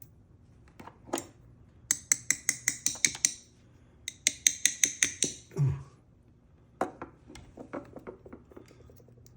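Small metal lock parts clinking: two quick runs of sharp metallic taps with a high ringing, about seven a second, as the 1959 Mercury ignition lock cylinder is knocked to shake out its pin tumblers and springs. Then a dull knock and a scatter of lighter clicks.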